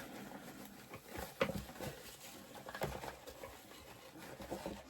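Hands rustling and patting dry terrarium moss into place, with a few scattered light crackles and taps.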